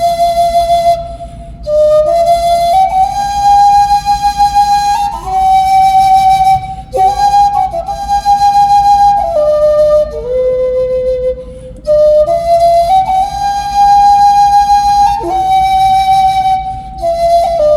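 Solo flute playing a slow melody, one note at a time, in phrases separated by short breaks.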